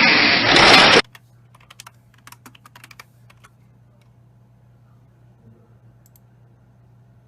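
A loud rush of noise that cuts off suddenly about a second in, followed by a quick run of light clicks for a couple of seconds, then a faint steady hum.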